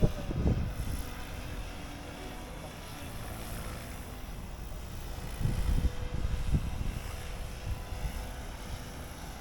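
Electric RC helicopter flying some way off, its motor and rotors giving a faint steady whine. Low rumbling bursts come at the start and again about five and a half to six and a half seconds in.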